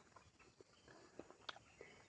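Faint, close chewing and wet mouth clicks from eating ripe jackfruit, with a couple of sharper clicks a little past a second in.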